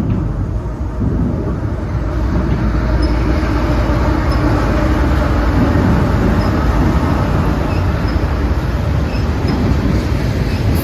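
Train rolling past: a steady heavy rumble that grows a little louder about two seconds in, with a few faint high pips over it.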